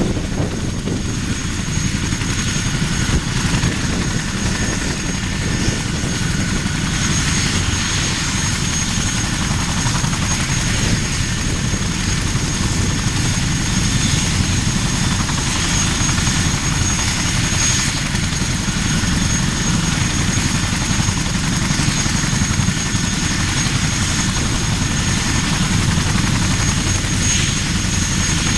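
CH-47 Chinook tandem-rotor helicopter running: its twin turboshaft engines and rotors make a loud, steady low rumble with a thin, constant high-pitched whine over it.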